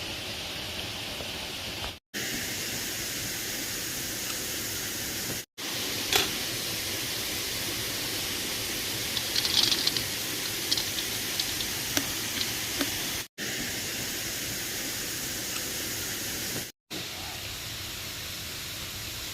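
Steady rushing of a waterfall, broken four times by very short drops to silence, with a few light clicks and taps about halfway through.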